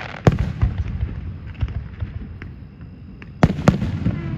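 Fireworks going off: a run of sharp bangs from aerial shells at irregular intervals, some fainter and some close. The loudest two come close together about three and a half seconds in.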